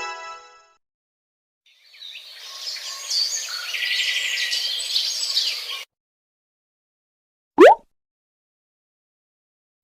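Birds chirping for about four seconds, followed by a single short rising whistle-like sweep.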